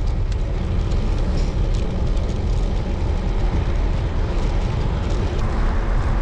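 Steady low rumble of wind and road noise while riding a road bicycle.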